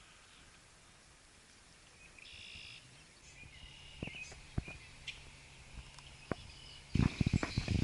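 Outdoor ambience with birds chirping, joined from about four seconds in by scattered sharp clicks and knocks. Near the end these turn into a rapid, louder clatter.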